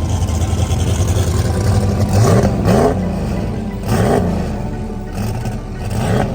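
Drag-racing engine revved in short throttle blips, its pitch rising sharply four times over a steady low drone.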